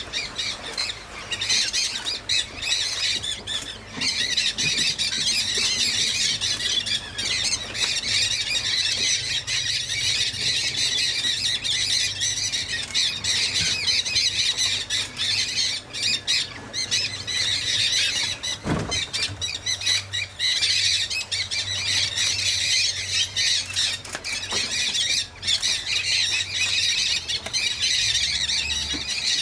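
A large flock of parrots, mealy amazons among them, squawking and screeching in a dense, unbroken chorus.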